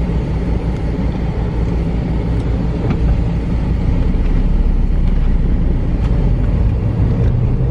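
Steady road and engine rumble heard inside a moving car's cabin, growing slightly louder as it goes.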